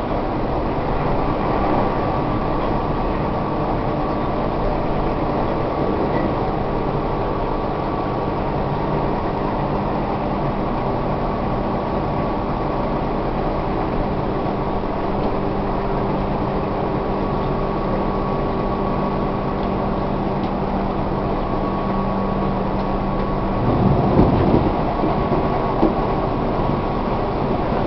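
Tobu 1800 series electric train running at speed, heard from inside a passenger car: steady wheel-and-rail rumble with a motor and gear hum. About three-quarters of the way through the hum drops away and a louder rumbling swell comes for a second or two.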